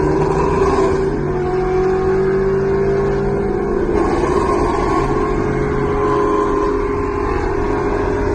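Ford Shelby GT350's 5.2-litre V8 running at steady revs while driving, a continuous exhaust drone with only small changes in pitch.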